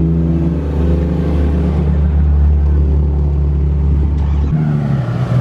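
A car engine running loudly through its exhaust at a steady, held pitch, with a deep low-end drone. The engine note drops off about four and a half seconds in.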